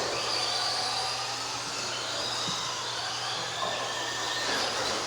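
Several electric RC racing trucks running on the track: the whine of their motors rises and falls in pitch as they accelerate and slow, over a steady hiss of tyres.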